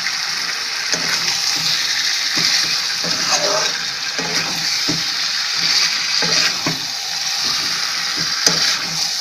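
Chicken and potato curry sizzling in a kadai as a metal spatula stirs and scrapes through it, with irregular scraping knocks over a steady frying hiss. The masala is being fried down (kosha).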